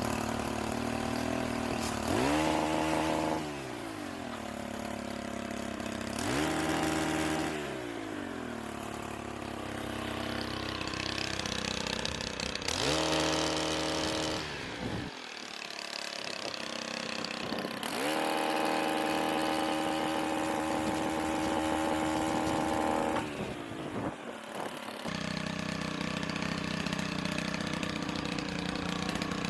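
Small two-stroke engine of a gas pole chainsaw revved up four times, each rev climbing quickly, held briefly and dropping back. The last and longest is held about five seconds, and then the engine settles to a steady lower running near the end.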